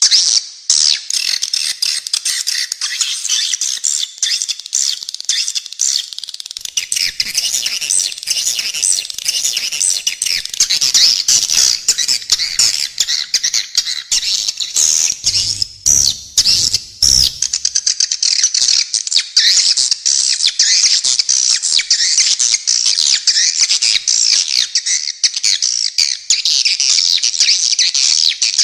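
Dense, rapid high-pitched bird chirping and twittering without a break, a masteran training recording of spiderhunter and swiftlet calls. A few low thuds sound about halfway through.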